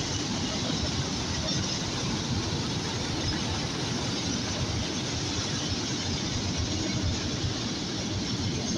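A train rolling past, a steady rumble and rolling noise of its cars on the rails.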